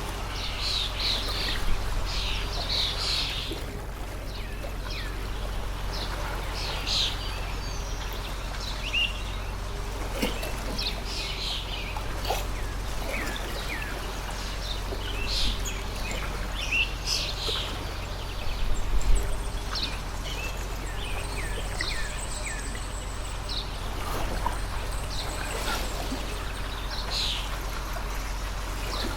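Stream water running steadily, with birds chirping on and off throughout.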